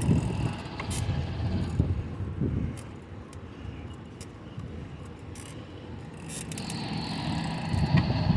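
Riding a bicycle: wind rumbling on the microphone with road noise, louder at the start and near the end and quieter in the middle, with scattered sharp ticks from the bike.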